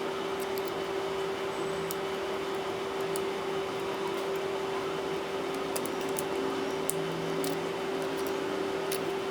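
A steady hum with one constant tone under it, and faint, light clicks scattered throughout from small tools and parts being handled while a Samsung Galaxy Note 8.0 tablet is taken apart.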